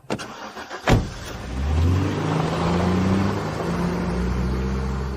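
A door shuts with a thump about a second in, then a truck engine starts up, revs and runs steadily.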